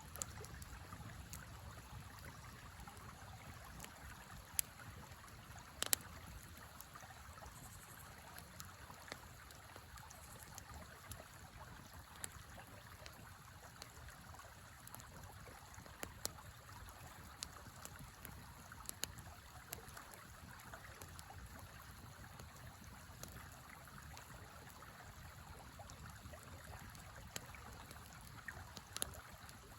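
A river flowing steadily, with a wood campfire crackling over it in scattered sharp pops, a few of them louder.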